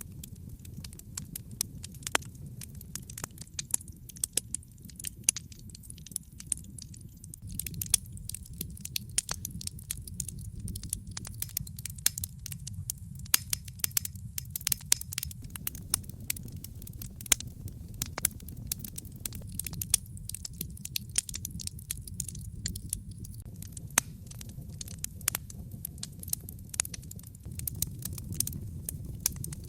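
Wood fire crackling in a fireplace: frequent, irregular sharp pops and snaps over a steady low rumble of the burning.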